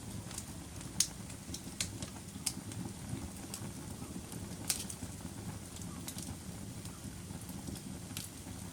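Wood fire crackling: a steady low rumble of burning with scattered sharp pops and snaps, the loudest about a second in and near five seconds.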